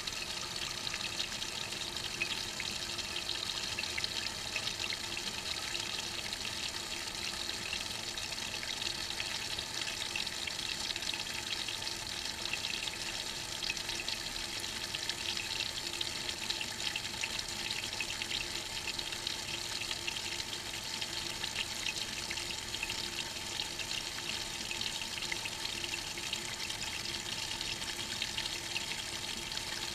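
Maytag washing machine tub filling: water running steadily into the tub, heard from inside the tub.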